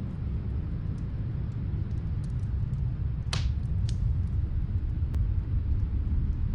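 Steady low rumble of snowstorm wind, with the faint scattered crackle of a fireplace and two sharper pops a little past halfway.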